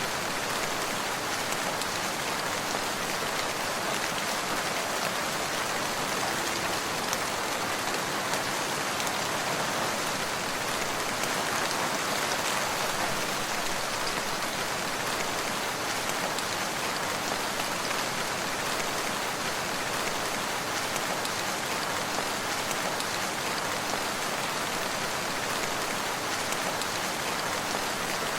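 Steady rain falling on surfaces, a dense even patter with no breaks or thunder.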